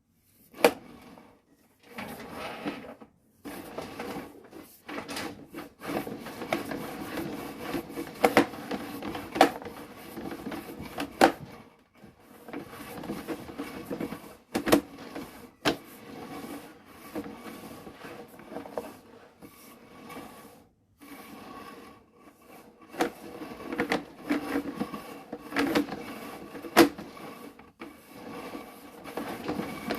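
Irregular mechanical rattling and scraping, broken by sharp clicks and knocks, with a few brief pauses.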